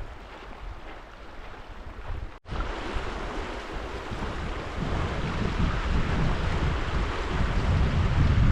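Wind gusting on the microphone over a steady rushing hiss. There is a brief cut about two and a half seconds in, and it is louder after it.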